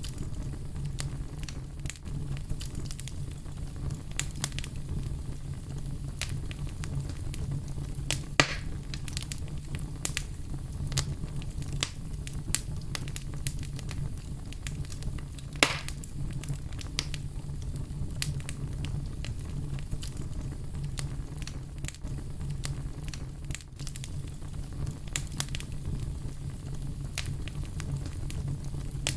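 Fire crackling steadily with many small pops over a low, even rumble. Two louder pops come about eight and fifteen seconds in.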